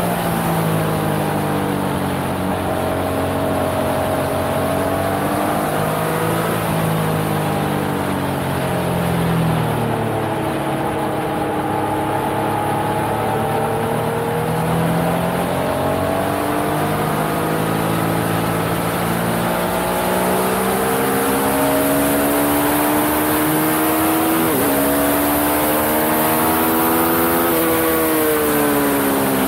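Yamaha XSR900's 847 cc inline-three engine heard onboard at speed on track, its pitch climbing under acceleration and dropping as the rider shifts gear and slows for corners, with a sharp drop at a gear change about 24 seconds in. A steady rush of wind and road noise runs underneath.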